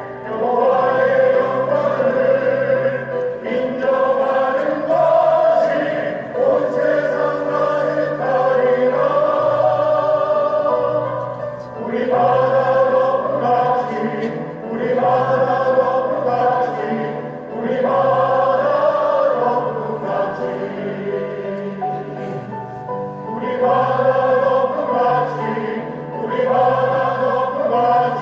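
Church choir singing a hymn in Korean with instrumental accompaniment, in sustained phrases with brief dips between them.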